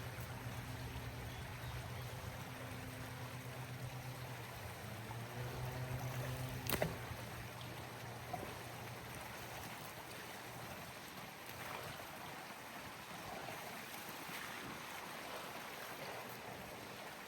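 A motor humming steadily, cut off with a sharp click about seven seconds in and fading out a few seconds later, leaving a steady rushing noise.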